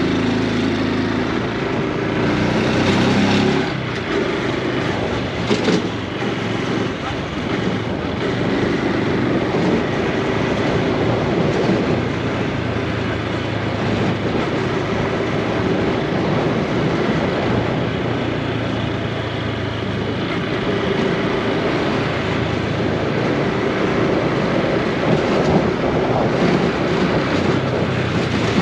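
Honda Super Cub C125's single-cylinder four-stroke engine running under way, with wind noise over the microphone. The revs rise over the first few seconds and drop sharply about four seconds in, then the engine runs on at a fairly even pitch.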